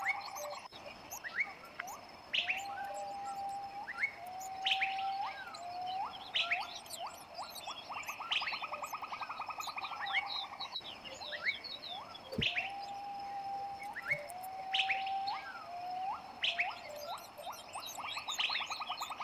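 Bird calls: a buzzy rattling trill, short level whistled notes and quick rising chirps, the same sequence coming round again about every ten seconds.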